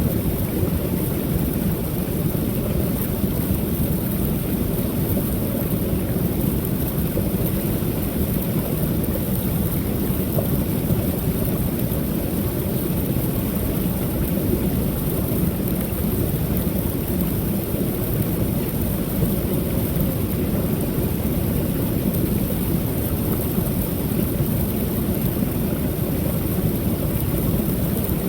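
Creek waterfall, water pouring steadily with an unbroken deep rush.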